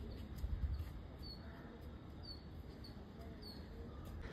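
Faint outdoor ambience: a few short, high bird chirps every second or so over a steady low rumble.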